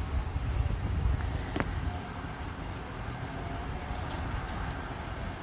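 Low, steady rumble of vehicle noise, a little stronger in the first two seconds, with one faint short click about a second and a half in.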